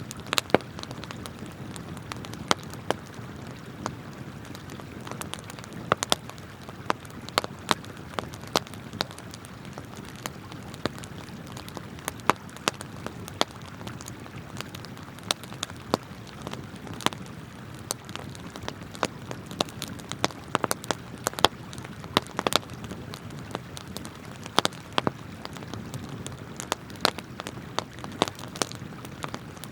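Wood campfire crackling, with frequent irregular sharp pops, over the steady rush of flowing river water.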